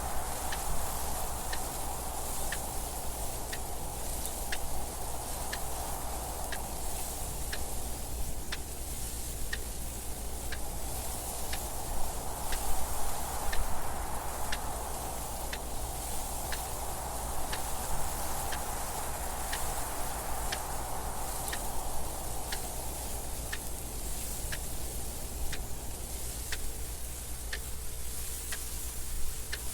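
Clock ticking about once a second over a steady bed of wind noise that swells and fades in slow gusts.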